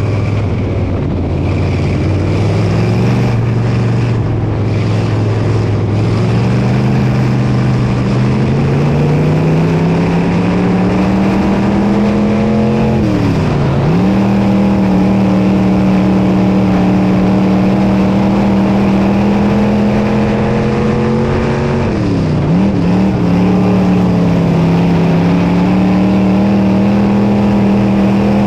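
Dirt modified race car engine on track, its revs climbing over the first ten seconds or so and then held steady. Twice, about nine seconds apart, the revs drop sharply and come straight back up as the driver lifts for the turns.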